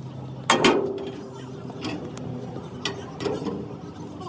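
Metal clanking: one loud metal strike about half a second in that rings briefly, then a few lighter knocks and clicks of metal on metal.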